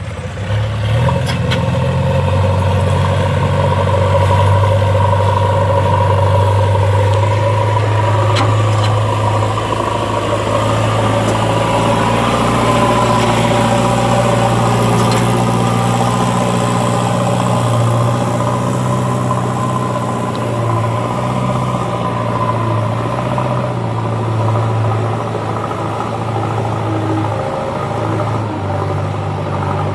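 Heavy vehicle engine running steadily and loud, its low hum coming up about a second in and holding.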